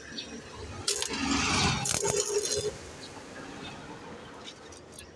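Welding on a car muffler: short bursts of crackling hiss with metallic clinks, loudest from about one second in to the middle, then quieter.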